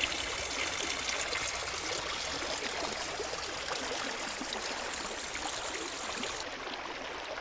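Small forest stream trickling and dropping over stones, a steady babbling wash of water.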